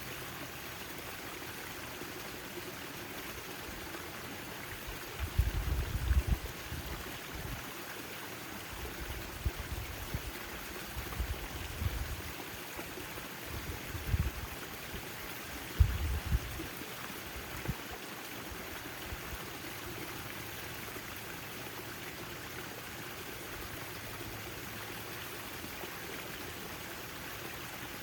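Backyard fountain water splashing and trickling in a steady hiss. From about five seconds in to about seventeen seconds, several brief low rumbles rise above it, louder than the water.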